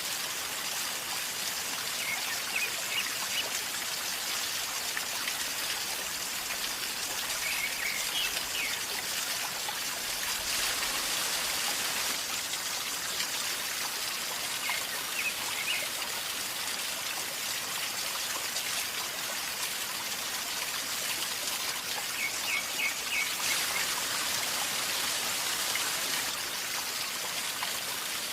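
River flowing calmly, a steady gurgling rush of water. A bird chirps briefly about four times over it.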